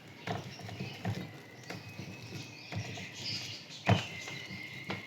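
Faint, irregular light taps and scratches of writing, with one sharper tap nearly four seconds in.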